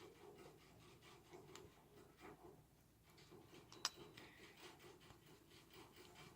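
Faint soft, sticky crackles and rubs of a spoon pressing and working slime, coming in irregular strokes a few times a second, with one sharp click about four seconds in.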